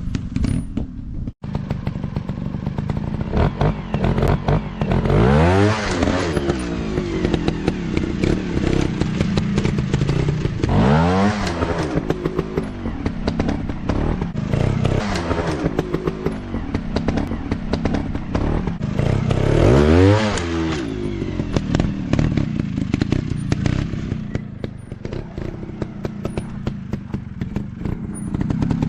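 Off-road dirt bike engine running, with sharp rises in revs about 5, 11 and 20 seconds in and again at the end as the rider throttles up.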